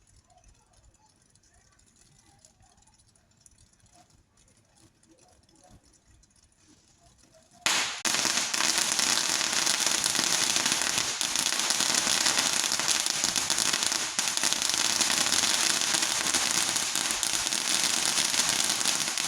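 Fireworks going off as a dense, unbroken crackle, like a long string of firecrackers. It starts suddenly about eight seconds in, after a quiet stretch, and keeps going loud and even.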